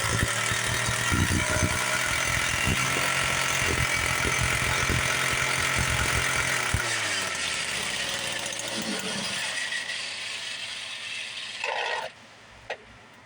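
Small two-stroke engine on a motorized bicycle running with a rattly clatter, then slowing and winding down about seven seconds in. The remaining noise fades and cuts off near the end.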